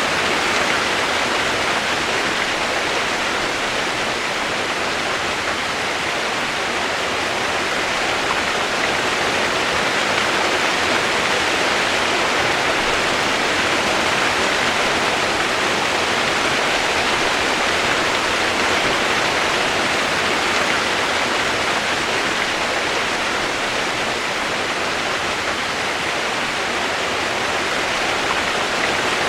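Steady, unbroken rushing of running water, like a waterfall or fast stream.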